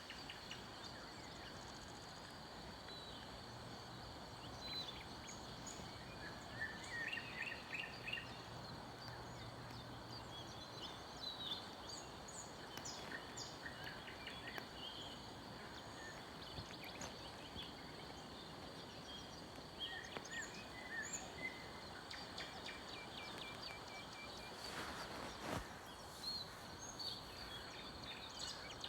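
Several small forest birds chirping and singing in short, scattered phrases over steady background hiss. A faint low hum runs between about three and ten seconds in, and there is a brief noise about 25 seconds in.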